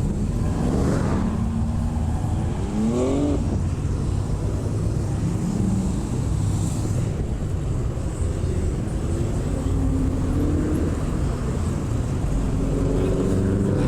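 Car engines running with a steady low rumble, one revving up so its pitch climbs for a couple of seconds near the start, then easing into gentler engine notes.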